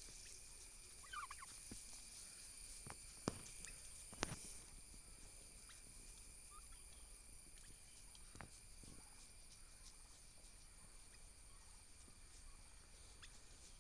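Domestic turkey toms, faint: a short wavering turkey call about a second in, then a few sharp knocks, the loudest two around three and four seconds in, over a steady thin high hum.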